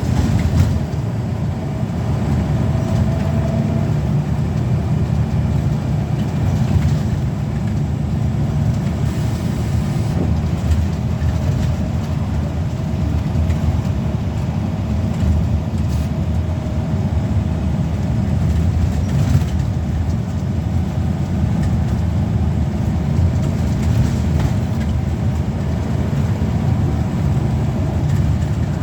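Scania L94UB bus's five-cylinder diesel engine running steadily under way, a continuous low drone.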